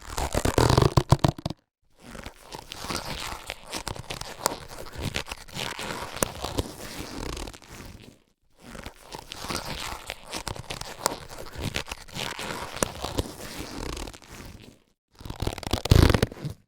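Latex surgical gloves being handled, stretched and rubbed, with a rubbery crinkling texture. There are louder bouts at the start and near the end, and two longer, quieter stretches of rubbing between them, separated by brief pauses.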